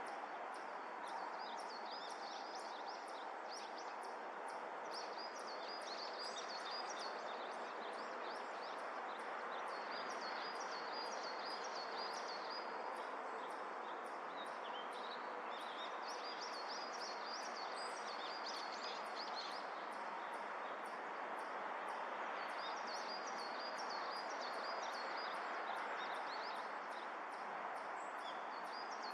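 Small birds chirping and trilling over a steady outdoor hiss, with a high thin tick repeating about twice a second.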